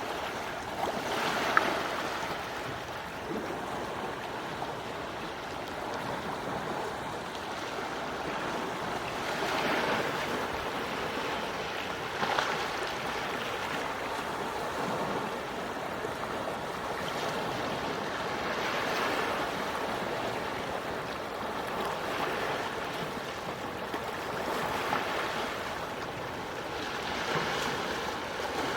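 Quiet, gentle waves washing onto a shore: a steady rush of water that swells and eases every few seconds.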